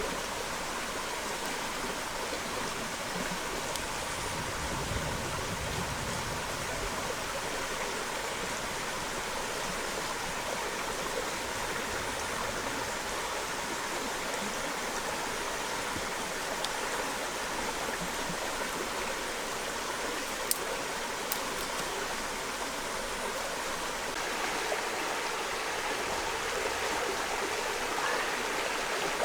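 Steady rushing and burbling of a flowing stream, with two faint sharp clicks about two-thirds of the way through.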